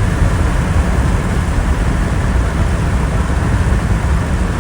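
Loud, steady rumble of motor vehicles with a rushing noise, heaviest in the low end.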